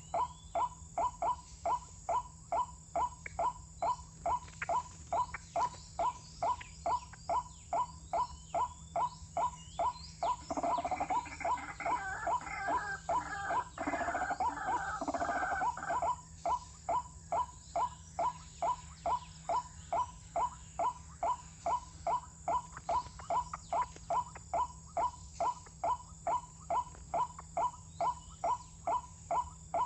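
White-breasted waterhen calls: a short, pitched call repeated very evenly, about two and a half times a second. Between about ten and sixteen seconds in, harsher, noisier calling joins it.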